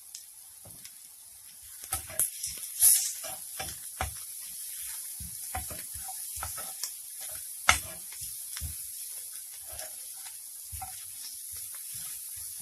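Chopped onions, green chillies, ginger and curry leaves sizzling in oil in a frying pan, with a steady high hiss, while a spatula knocks and scrapes against the pan as the masala is stirred; the sharpest knock comes about two-thirds of the way through.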